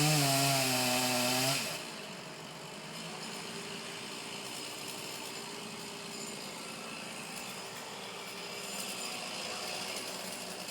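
Chainsaw running at high revs, its two-stroke engine note wavering slightly, then cutting off abruptly under two seconds in. A much quieter steady engine hum carries on afterwards.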